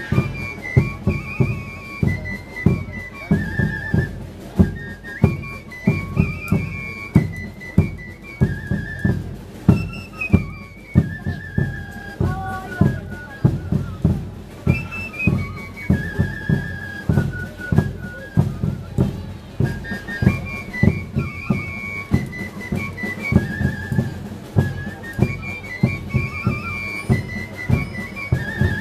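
Religious dance band music: drums beating a steady rhythm under a high, repeating flute melody.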